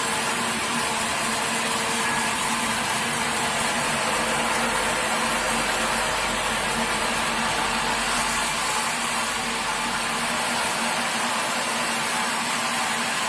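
Sawmill machinery running steadily: a continuous, even mechanical hum and hiss.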